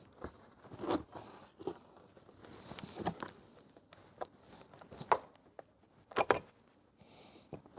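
Irregular handling noises: rustling and crinkling with a few sharp clicks and knocks, the loudest a little after five seconds and a close pair near six seconds.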